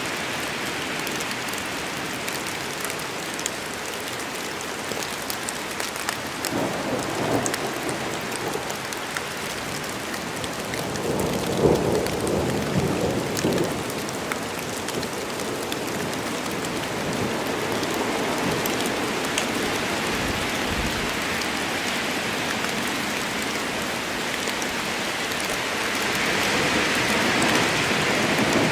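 Steady rainstorm, rain falling evenly, with thunder rumbling twice, about a quarter of the way in and again near the middle, and a third rumble starting near the end.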